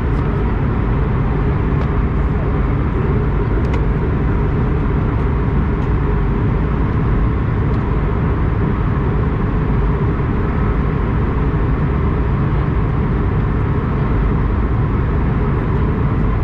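Steady, loud engine and airflow noise of an Airbus A220-100 with its Pratt & Whitney PW1500G geared turbofans running, heard inside the cabin, with a few faint ticks.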